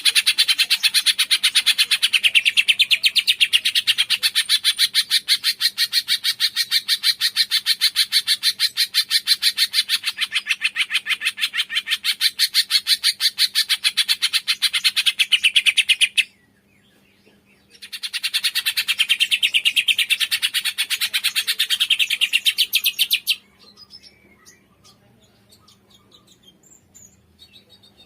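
Cungkok songbird singing a long, very fast trill of evenly repeated high chirps. It breaks off about 16 seconds in, starts again a moment later and stops about 23 seconds in, leaving only faint scattered calls.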